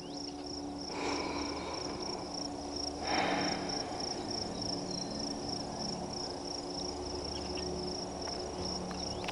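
Insects chirping in a steady, rapid, high-pitched pulsing trill. Two soft breathy swells come about one and three seconds in, slow nasal Ujjayi breaths.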